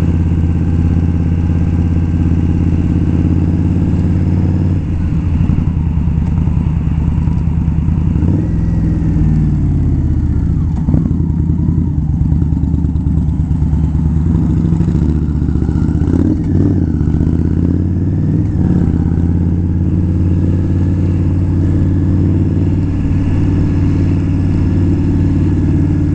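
Indian Scout motorcycle's V-twin engine running steadily under way, at an even loudness throughout.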